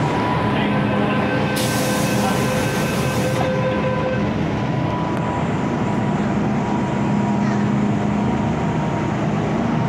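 MTR Kwun Tong line M-Train heard from inside the car while running: a steady rumble of wheels and motors with thin whining tones, some of which fade out about four seconds in.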